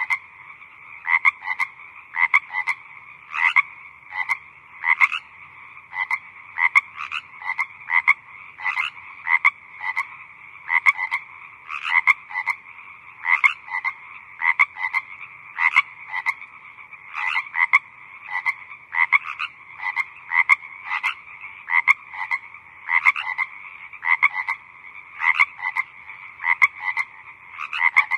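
Frogs croaking in a chorus: short croaks repeat irregularly, roughly one to two a second, over a steady background of more calls.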